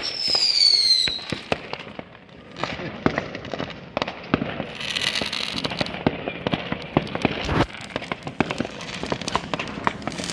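New Year's fireworks: a whistling firework's pitch falls over the first second, then many sharp bangs and cracks of firecrackers and rockets follow one after another, with a hissing crackle about five seconds in.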